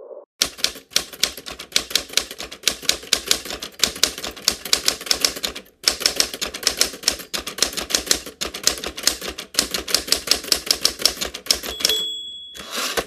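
Manual typewriter being typed on quickly, a rapid run of key strikes several a second with one brief pause about halfway. A short ringing tone sounds near the end as the typing stops.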